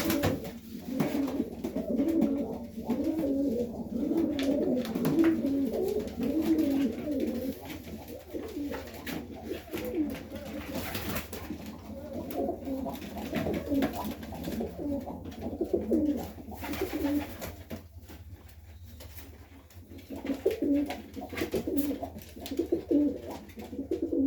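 Serbian Highflyer pigeons cooing, several birds overlapping in repeated wavering coos. The cooing is densest in the first seven seconds, thins out through the middle, and picks up again near the end, with scattered short taps in between.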